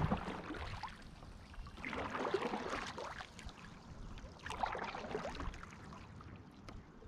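Kayak paddle strokes: water swishing and dripping off the paddle in three swells a couple of seconds apart.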